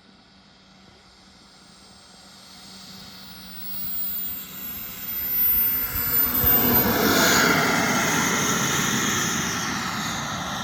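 A model aircraft flying past, its engine growing from faint to loud over several seconds, peaking about seven seconds in, then easing off slowly.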